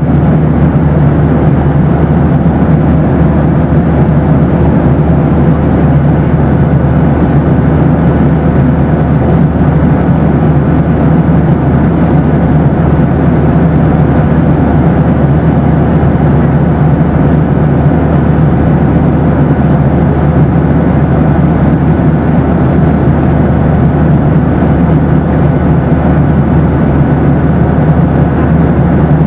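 Steady noise of a Boeing 737 airliner, a constant low rumble of engines and airflow with a faint steady hum over it, unchanging throughout.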